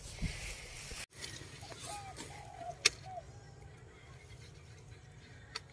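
A dove cooing one low three-note phrase: a hooked first note, a longer middle note and a short last note. About halfway through, a single sharp click is the loudest sound.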